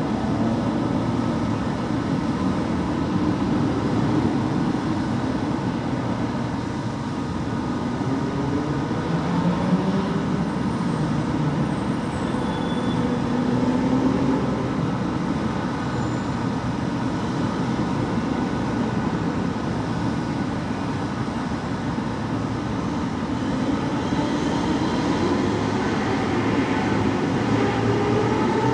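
Fire engine and ladder truck responding: heavy truck engines running under electronic sirens that wail, sliding up and down in pitch, with a higher siren sweep rising near the end.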